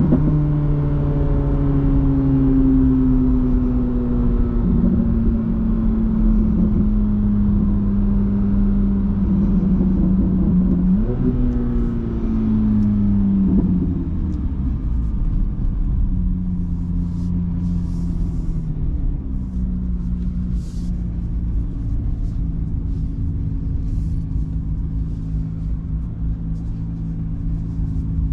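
Corvette C8 Z06's 5.5-litre naturally aspirated flat-plane-crank V8 running on the road, its note sinking slowly in pitch as revs come down. About eleven seconds in it rises briefly and falls again, then settles to a steady, lower, slightly quieter note.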